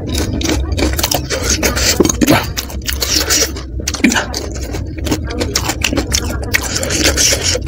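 Close-miked chewing of crisp panipuri shells and green chilli: dense, irregular crunching and crackling, with breaths blown out through pursed lips against the chilli heat.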